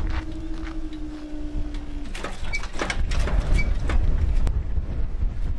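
Class 700 electric train passing close by at speed. A steady whine sinks a little in pitch and stops about two seconds in, followed by a heavy rumble with a quick series of sharp wheel clicks and rattles.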